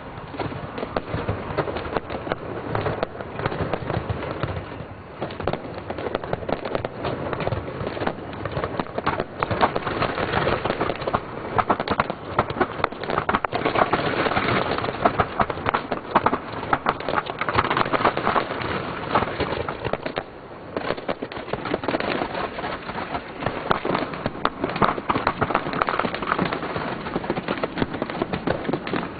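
Large fireworks display going off without a break: rapid, overlapping bangs and crackling, growing denser and louder about ten seconds in.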